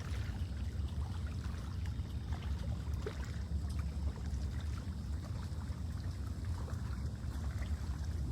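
Small waves lapping and trickling at the lake's edge, with faint scattered splashes, over a steady low rumble of wind on the microphone.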